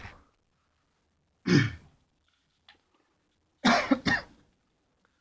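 A man coughing: one cough about a second and a half in, then two quick coughs near the middle.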